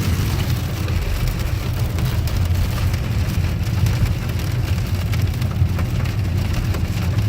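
Rain falling on a moving car, heard from inside the cabin as fine patter over the steady low rumble of the car on the wet road.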